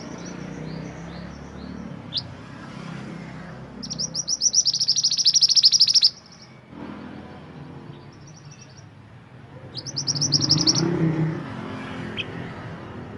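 Mantenan gunung songbird singing: a long rapid high trill and a shorter one later, with short chirps in between. A low steady rumble sits underneath.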